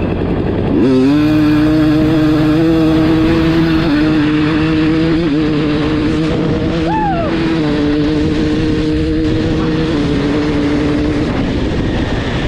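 2022 KTM 300 XC-W two-stroke dirt bike engine, fitted with a full FMF exhaust (Fatty pipe and TurbineCore 2 silencer), revving up sharply about a second in and then held at high revs for about ten seconds, with brief dips, before it drops away near the end.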